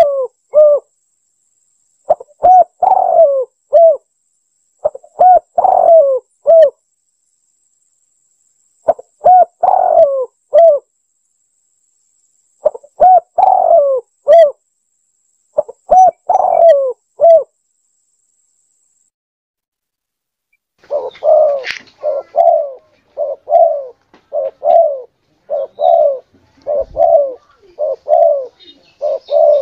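Spotted dove (tekukur) cooing, a recorded lure call: five repeated cooing phrases a few seconds apart, then after a short pause a quicker run of short coos, about one and a half a second.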